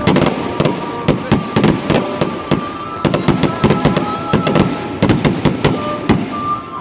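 Fireworks display: a rapid, continuous barrage of aerial shell bursts, several bangs a second over steady crackling.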